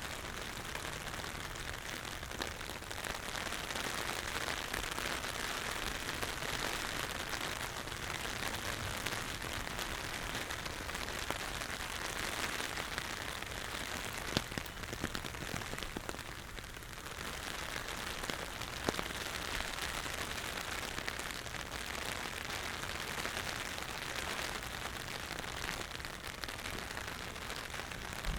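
Steady rain falling, with a few sharp drops ticking close by; it eases for a moment about sixteen seconds in.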